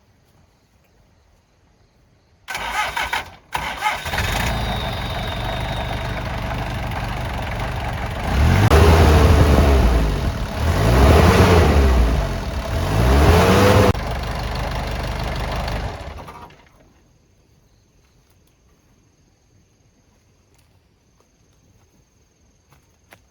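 Box truck engine cranking and catching about two and a half seconds in, then running steadily. It is revved up and down three times, settles back to steady running, and shuts off about sixteen seconds in. The engine starts after a repair on a truck that would not start before.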